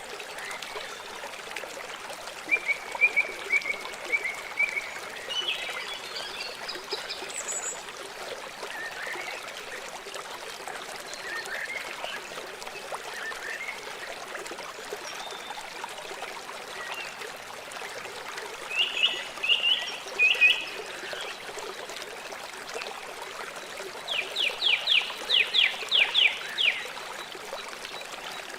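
River water flowing steadily over rocks, with birds calling above it: scattered short chirps, a few louder calls about two-thirds of the way in, and a quick run of about eight sharp notes near the end.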